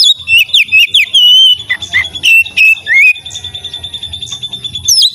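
Oriental magpie-robin (kacer) singing: loud, clear whistled notes sliding up and down, broken for a couple of seconds in the middle by a fast, even trill on one high note, with the whistles returning near the end.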